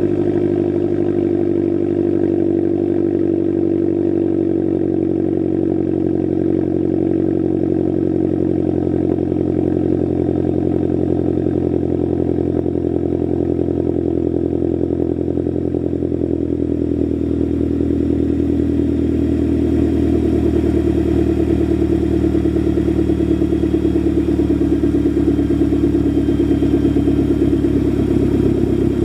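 2011 Mazdaspeed3's turbocharged 2.3-litre four-cylinder idling steadily after a cold start, heard through an ATP long catted downpipe and a non-resonated Ultimate Racing catback exhaust. The idle note shifts slightly and grows a little louder about two-thirds of the way through.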